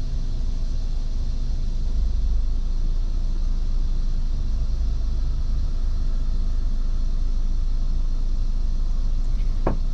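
2004 Honda Accord EX's engine idling with the car stopped, heard from inside the cabin as a steady low rumble. A short click sounds near the end.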